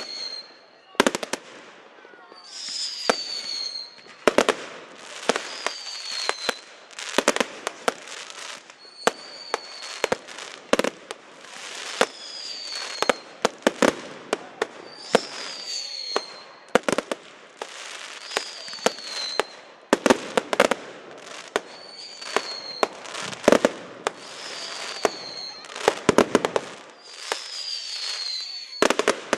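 Aerial fireworks firing in a continuous sequence: every two to three seconds a short high whistle falls in pitch, followed by a string of sharp bangs from shells bursting overhead.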